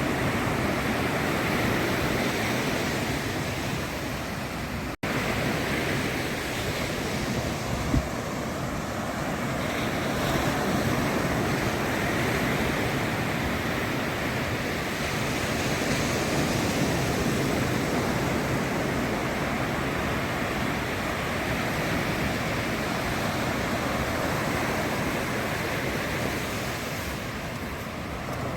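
Ocean surf breaking and washing up the beach in a steady rush that swells and eases, with some wind on the microphone. The sound cuts out for an instant about five seconds in, and there is a short knock about eight seconds in.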